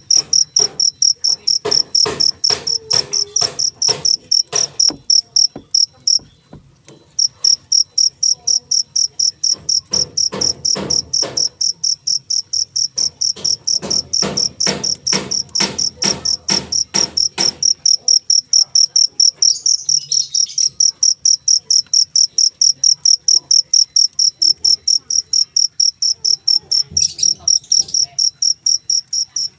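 Cricket chirping loudly in a fast, even series of high-pitched chirps, about three a second, stopping for under a second about six seconds in before resuming.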